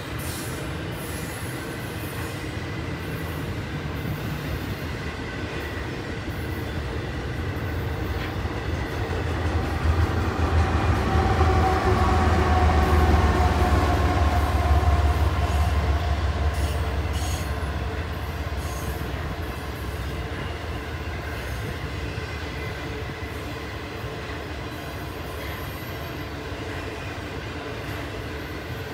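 A Union Pacific intermodal stack train rolls past with a steady rumble of cars on the rail. Halfway through, mid-train diesel locomotives go by: a loud low engine rumble with a whine that drops in pitch as they pass, then fading back to the rolling container and trailer cars.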